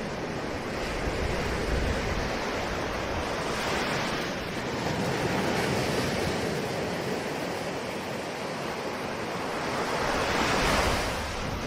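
Ocean surf: a continuous wash of waves that swells and recedes, with the loudest wave breaking near the end.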